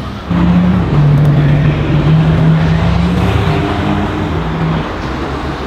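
Sports car engine at high revs as the car accelerates hard. It comes in loud abruptly just after the start, its note holding and stepping in pitch, then drops away near the end.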